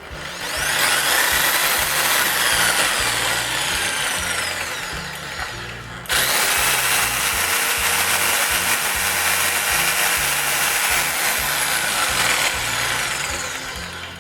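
Bosch PST 700 E 500 W corded jigsaw running with no load, its motor whining as it winds up about half a second in. The speed sags, then jumps straight back up about six seconds in, and eases off near the end.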